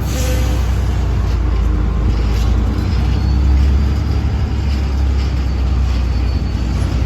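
A large engine running steadily: a loud low rumble with a faint pitched hum over it, and a short hiss right at the start.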